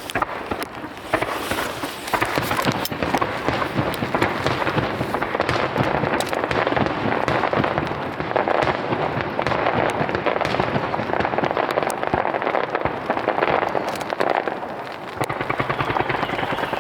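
Starmine fireworks barrage: shells firing and bursting in rapid succession, a dense, unbroken run of booms and crackle.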